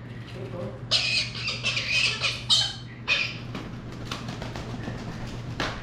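A parrot screeching harshly, about four loud, rasping screeches in a row starting about a second in, the distress calls of a bird being held for a wing trim. Quieter scattered clicks and rustles follow, with a sharp click near the end.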